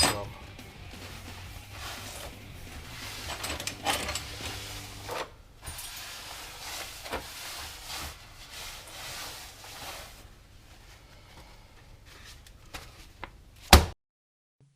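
Workshop handling noises: scattered knocks, clatter and rubbing as tools and parts are moved about, with a low hum that stops about five seconds in. One sharp, loud knock comes near the end, and the sound then cuts out suddenly.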